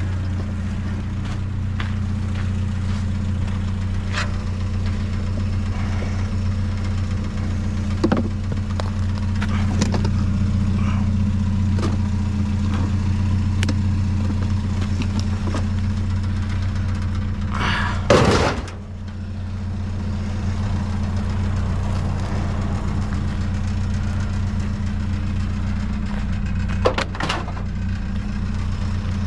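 Small pickup truck's engine running steadily, heard from inside the cab, with scattered light knocks and rattles. There is a short loud noise about two-thirds of the way through.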